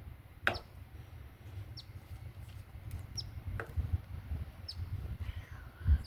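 A small bird gives a few short, high chirps, each sliding down in pitch, about four spread over several seconds. Under them runs a low rumble on the microphone, with a couple of sharp taps.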